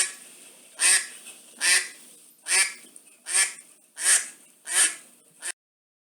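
Waterfowl calling: seven loud, evenly spaced honking calls about 0.8 s apart, then a short eighth call that cuts off abruptly.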